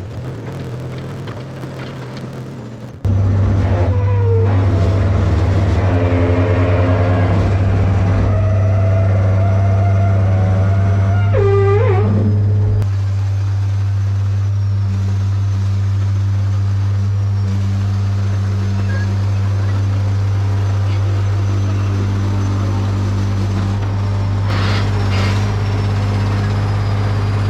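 Case 170B excavator's diesel engine running steadily while the machine travels, a deep constant hum heard from in or near the cab. It gets suddenly louder about three seconds in. Through the first half a wavering, horn-like squeal rides over it and slides sharply down just before it fades.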